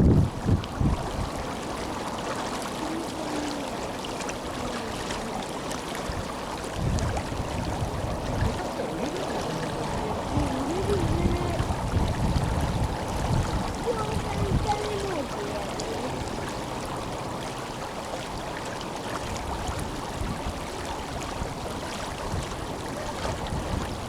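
Steady rushing of the Tenryu River's flowing water, with wind buffeting the microphone in low gusts at times.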